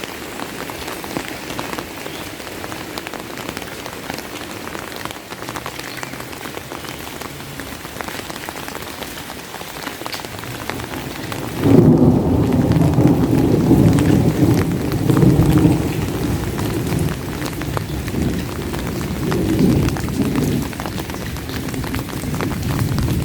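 Steady heavy rain, with a loud, low thunder rumble that breaks in suddenly about halfway through and rolls on to the end.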